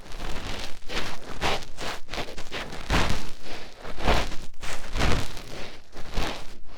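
Fingertip rubbing and scratching deep in the ear, close-miked for ASMR: crackly, rustling strokes, roughly two a second and unevenly spaced.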